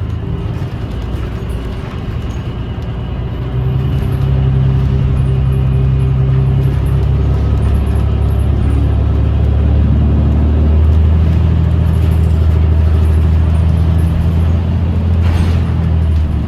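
A 2017 New Flyer XDE40 diesel-electric hybrid bus under way, heard from inside: its drivetrain makes a low droning hum with steady tones, and the hum grows louder about three and a half seconds in. The uploader calls the bus's sound weird and puts it down to the transmission, or to a loose screw or panel. A short hiss comes near the end.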